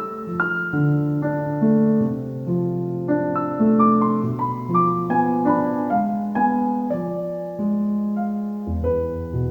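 Solo piano music, soft and slow, with notes struck one after another and left to ring, and a low bass note coming in near the end.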